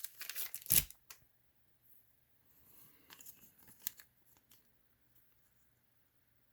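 Crinkly wrapping or plastic sleeve rustling and crackling as trading cards are handled, with a knock about a second in. Then faint rustles and a light click a few seconds later.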